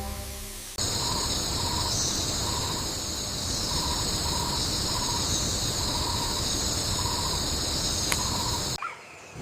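Jungle insect chorus: a dense, steady high-pitched buzzing with a faint regular pulsing call beneath it. It cuts off suddenly near the end.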